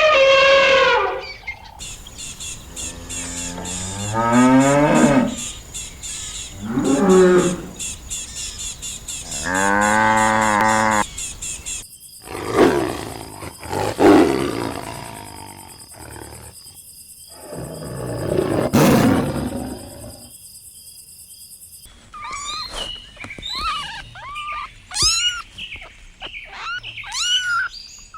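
Farm animal calls in a series of cut-together clips: a few long, loud calls that fall in pitch, then rougher, lower calls, then many short high chirps near the end.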